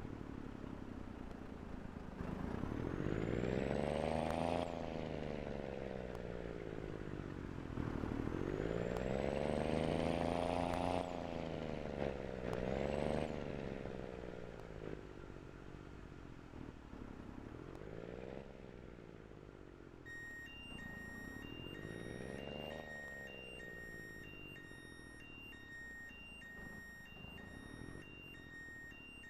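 Scania truck's diesel engine pulling through the gears: the revs climb and drop sharply at each shift, with a turbo whistle rising alongside on the first two pulls. About two-thirds of the way in, an electronic beep starts repeating at an even pace.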